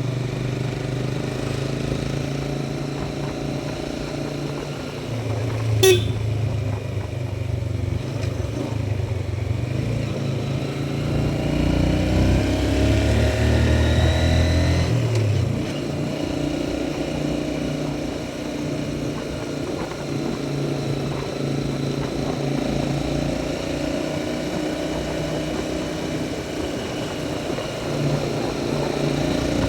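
Motorcycle engine running steadily while riding. A brief sharp click comes about six seconds in, and a louder stretch with rising higher tones comes around twelve to fifteen seconds in.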